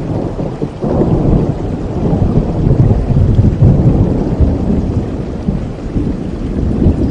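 Thunder over steady rain: it breaks in sharply about a second in and rumbles on low and loud through the rest.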